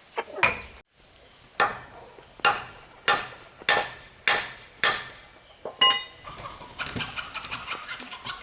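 Hammer blows on wood: six sharp strikes at a steady pace, a little under two a second, each with a short ring. A softer, scratchier stretch of small sounds follows near the end.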